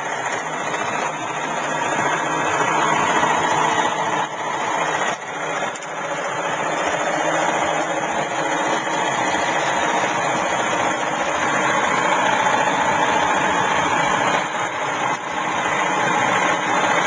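Homemade coil-driven magnet-rotor electric motor spinning at high speed, a steady mechanical whir with a few brief dips in level.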